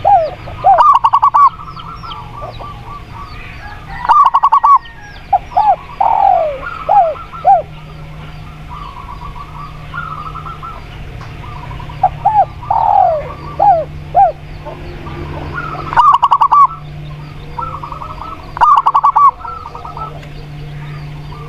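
Zebra dove (perkutut) and spotted dove (tekukur) cooing back and forth. Groups of short falling coos alternate with four loud, rapidly pulsed coo phrases, and small birds chirp faintly behind, over a steady low hum.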